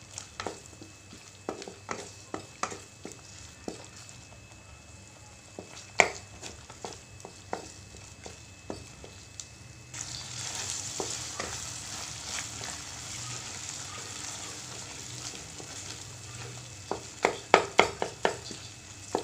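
Beef brain frying in a coated kadai, stirred with a wooden spoon that clicks and scrapes against the pan now and then. About halfway through the sizzling hiss gets louder and steadier, and near the end the spoon knocks against the pan several times in quick succession.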